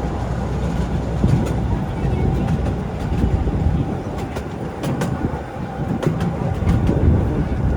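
Artouste narrow-gauge mountain train running along the track: a steady low rumble, with irregular clicks and clacks of wheels on the rails.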